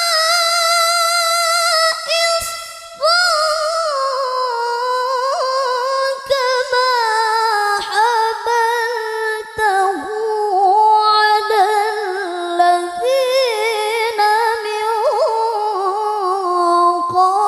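A woman chanting the Qur'an in melodic qiroah style, drawing out long ornamented phrases with a wavering, high voice. She breaks briefly for breath about two and a half seconds in.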